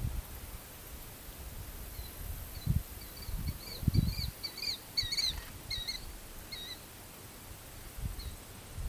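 A bird calling a quick run of short, high chirps, about four a second, that builds and fades over some four seconds. Low thumps are heard underneath it.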